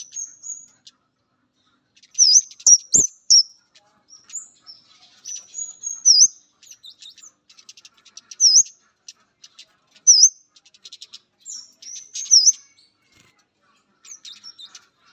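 Male flowerpecker calling: short, very high-pitched notes that dip and rise again, repeated every second or two, mixed with rapid dry ticking chips.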